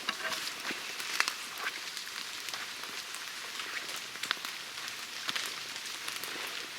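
Steady rain falling, an even hiss with many separate drops ticking sharply; two louder drop hits come about a second in and around four seconds in.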